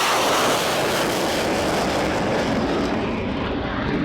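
A military jet flying past at an airshow, its engine noise loud and steady. The highest part of the sound fades away near the end as the aircraft moves off.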